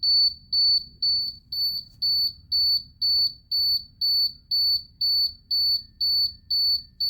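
A bus cab's warning buzzer beeping steadily in a high tone, about twice a second, with the key on before a cold start of the 1993 International bus.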